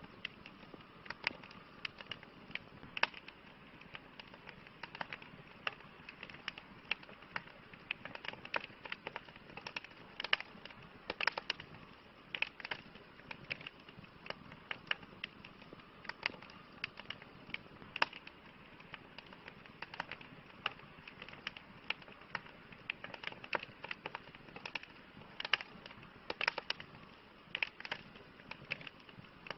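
Wood campfire crackling: frequent irregular pops and snaps over a soft steady hiss of burning.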